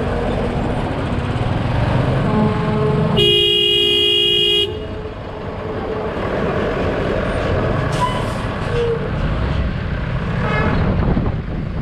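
Road traffic running steadily, with a vehicle horn giving one loud blast of about a second and a half a few seconds in, and fainter honks later.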